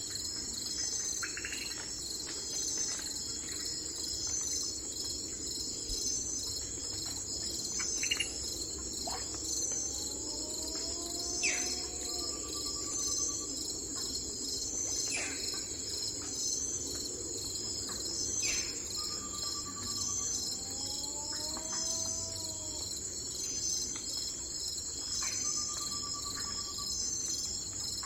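Crickets chirping in a steady, high, pulsing chorus, with short sweeping bird whistles every few seconds.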